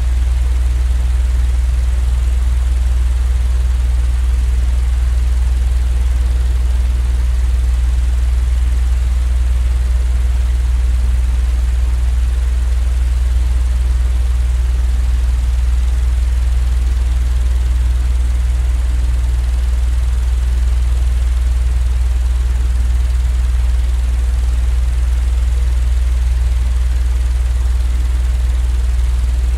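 Steady, unchanging low rumbling noise of a sleep-aid white-noise track, deepest in the bass with a faint hiss above.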